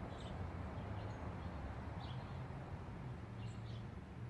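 Quiet outdoor background: a steady low rumble with a few faint, short high chirps.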